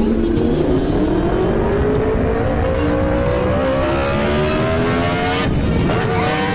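Off-road motorcycle engine accelerating, its pitch climbing steadily for about five seconds. Near the end the pitch drops and starts climbing again, as at a gear change.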